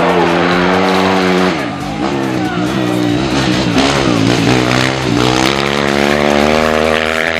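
Rally motorcycle engine running hard, its pitch holding steady, dipping briefly twice and then climbing steadily near the end as the rider works the throttle.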